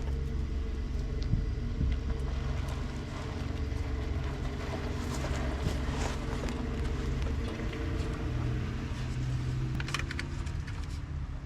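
An engine running steadily with a low, even hum; its tone shifts slightly about eight seconds in, and there are a few faint clicks.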